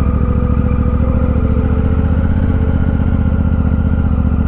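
Honda Africa Twin's parallel-twin engine running at low, steady revs as the motorcycle rolls slowly along.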